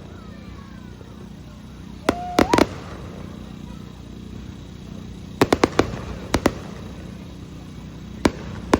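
Aerial fireworks bursting in quick clusters of sharp bangs: a volley about two seconds in, another from about five and a half to six and a half seconds, and two single bangs near the end.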